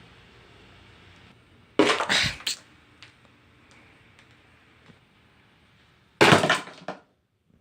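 Loud thumps and clatter of a person stumbling and falling, in two short bursts: one about two seconds in and a louder one near the end.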